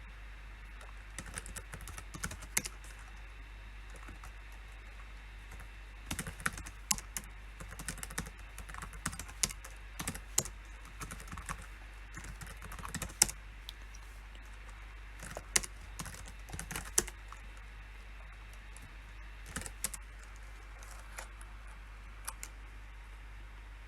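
Typing on a PC keyboard in irregular bursts of key clicks, with pauses of a few seconds between runs, over a steady low hum.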